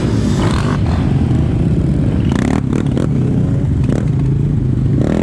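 A small motorbike or quad bike engine running at a fairly steady speed, with a few clattering knocks over it.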